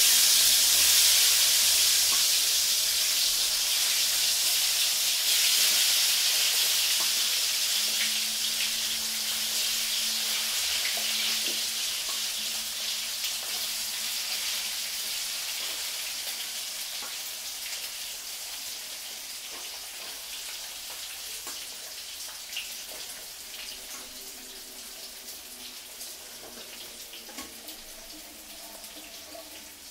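Sweet potato pieces deep-frying in very hot mustard oil: a loud sizzle that fades steadily as more pieces are dropped in, with small crackles throughout. The moist sweet potato makes the hot oil sizzle hard at first.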